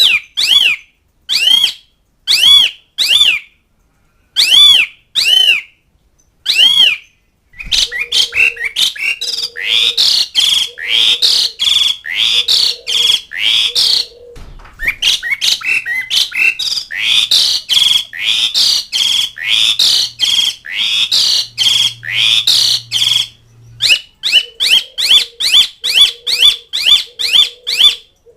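Pied starling (jalak suren) calling loudly, a call meant to challenge rivals. There are a handful of separate sharp notes about a second apart, then long, fast runs of repeated harsh chattering notes with a short break around the middle.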